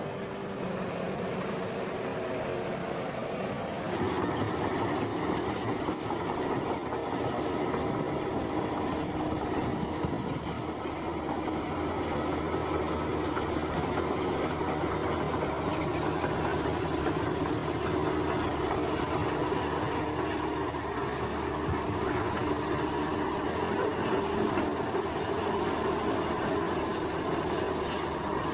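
Diesel engine of heavy earthmoving machinery running steadily. From about four seconds in, insects chirp in a fast pulsing rhythm over it.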